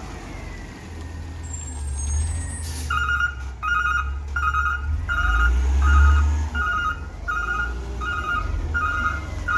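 Garbage truck engine running with a low rumble; about three seconds in a short air hiss, then the truck's reversing alarm starts beeping about twice a second as it backs up.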